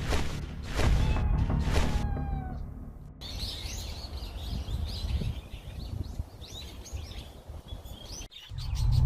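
Music with heavy beats cuts off about three seconds in, then birds chirp over a steady background hiss. A loud low rumble starts near the end.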